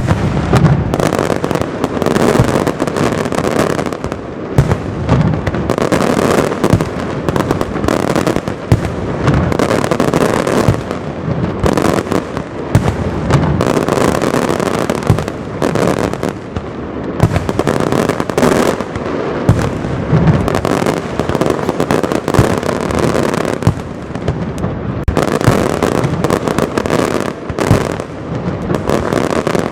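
A castillo aerial fireworks display: a dense, unbroken barrage of shell bursts, bangs and crackle, with some louder booms standing out.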